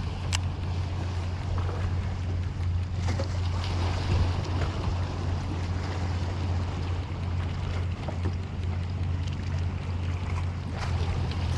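Wind buffeting the microphone with a steady low rumble, over the wash of water around a fishing kayak on the open sea. There is a sharp click near the start.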